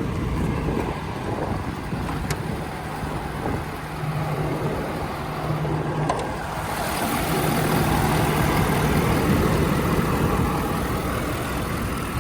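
Ford 6.7 L Power Stroke V8 turbo-diesel idling steadily, with a few sharp clicks in the first half. It grows louder and brighter about seven seconds in.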